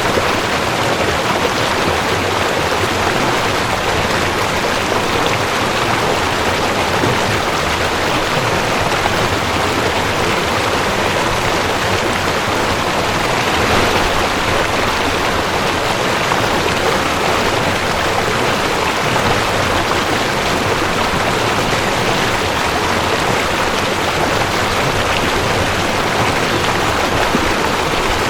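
Mountain stream rushing over rocks: a steady, even rush of water that holds at one level throughout.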